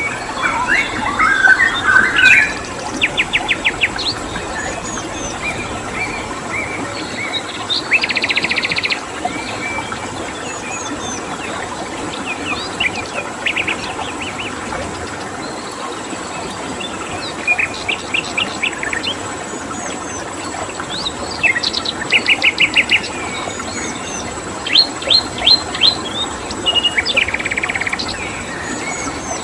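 Several songbirds chirping and trilling in short bursts of rapid repeated notes and quick downward chirps, recurring every few seconds. Under them runs a steady rushing stream and a thin, steady high insect-like tone.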